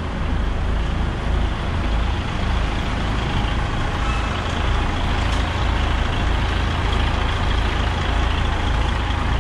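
Container truck's diesel engine running with a steady low rumble as the truck moves off.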